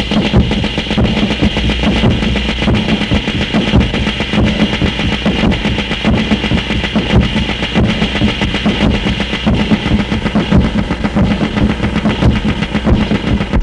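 Harsh noise music: a loud, dense wall of distorted sound with a steady low drone and a higher hiss, and a regular pulse of clicks running through it.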